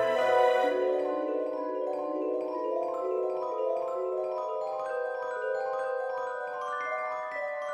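Instrumental background music with a mallet-percussion melody, like vibraphone or glockenspiel, its notes climbing near the end.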